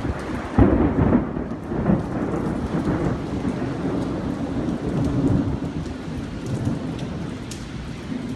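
Thunder with rain falling: a sudden loud clap about half a second in, then a low rolling rumble that slowly dies away over the steady hiss of rain.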